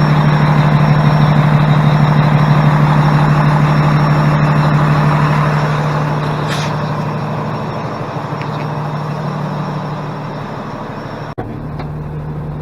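Heavy diesel plow truck engine idling with a steady low hum, under a loud rushing noise that fades away over the second half. The sound drops out for an instant near the end.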